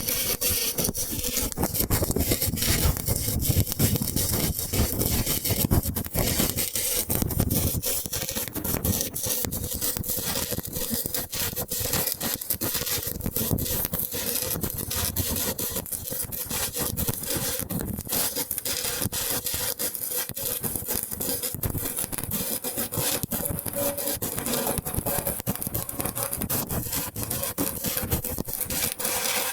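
Stick (shielded metal arc) welding arc crackling steadily, a dense run of sharp little pops and sizzling.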